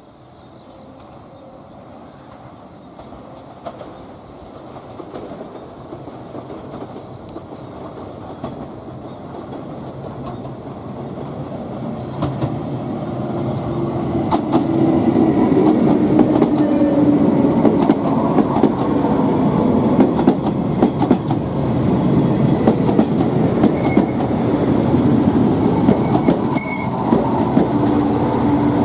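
A train approaching, growing steadily louder over about fifteen seconds, then passing close with its wheels clattering over the rail joints over a steady low running hum. A high, thin wheel squeal comes in briefly around twenty seconds in and again near the end.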